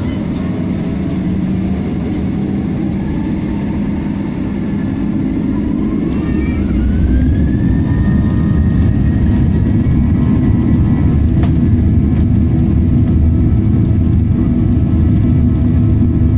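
Boeing 737-900ER's CFM56-7B jet engines spooling up to takeoff thrust, heard from inside the cabin. A whine rises in pitch from about four to eight seconds in as the low rumble grows louder, then holds steady through the takeoff roll.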